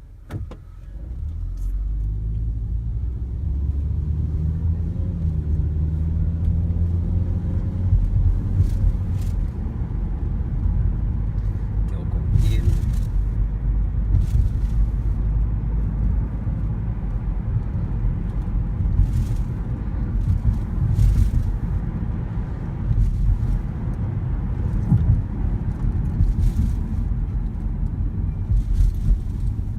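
Car engine and road rumble heard from inside the moving car. After a click at the start, the engine note climbs as the car gets going, then settles into a steady low rumble with road noise.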